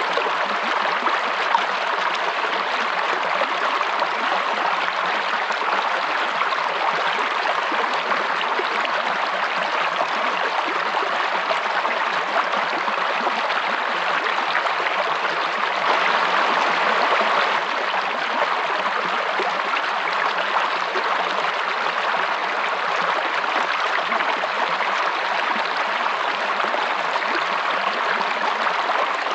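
Running water of a stream: a steady, even rushing that does not change.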